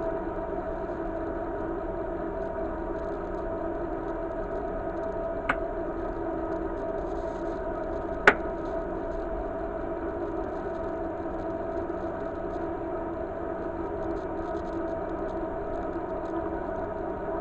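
Steady machine hum with a whine, interrupted by two sharp clicks about five and eight seconds in, the second one louder.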